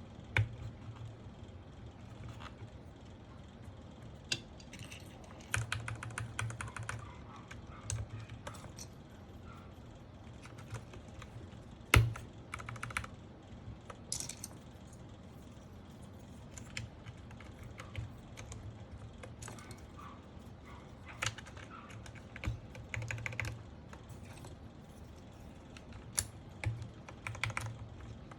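Mechanical keyboard with Gateron Pro Milky Yellow switches being pressed: irregular short runs of clacking keystrokes with pauses between them, and one sharper, louder click about twelve seconds in.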